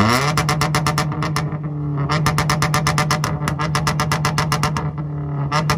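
Toyota Corolla's engine held on a two-step launch-control rev limiter: a steady high drone with rapid, machine-gun-like popping and crackling from the exhaust. The popping lets up briefly twice while the drone holds.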